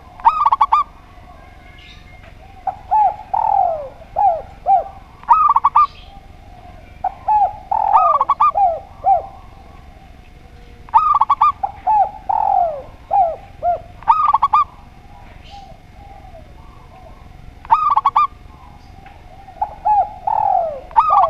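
A spotted dove and a zebra dove cooing in turn. Short groups of quick, higher, bright notes alternate with runs of lower coos that fall in pitch, a new phrase every few seconds.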